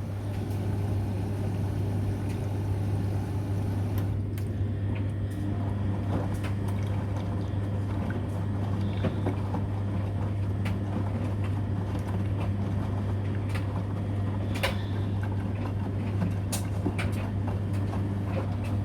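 Beko WMB81241LW washing machine at the start of its quick 40 cycle, water running in as it fills, over a steady low hum, with scattered light clicks.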